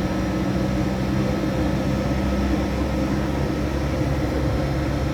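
Stationary railway locomotive running: a steady hum and drone with several constant tones that does not change.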